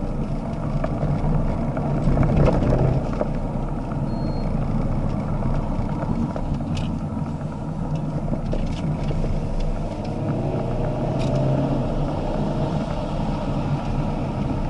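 Alfa Romeo Giulietta Veloce's 1.7-litre turbocharged four-cylinder engine heard from inside the cabin while driving, its revs rising and falling, loudest about two seconds in. A few short clicks are heard later on.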